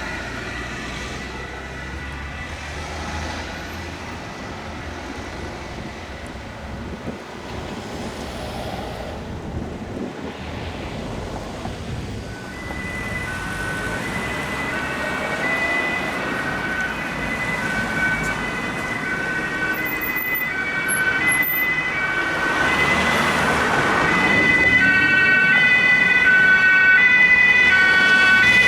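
German two-tone emergency-vehicle siren (Martinshorn) alternating between a lower and a higher note about once a second, coming in about twelve seconds in and growing louder as the vehicle approaches, over steady road and engine noise.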